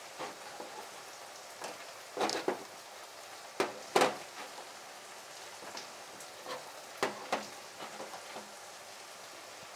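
A pan sizzling faintly and steadily, with a few light clicks and taps scattered through it as spices are spooned out by the tablespoon.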